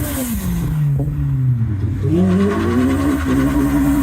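A car engine revving: the pitch drops away over the first second and a half, climbs again about two seconds in and holds high near the end.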